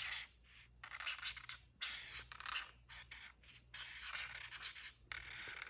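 A drawing tool scratching across paper in a series of short strokes, each under a second, with brief pauses between them.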